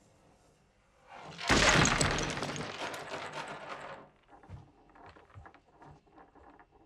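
A sudden loud crash of things breaking and falling, with a low rumble under it, dying away after a couple of seconds into scattered smaller knocks and clatters.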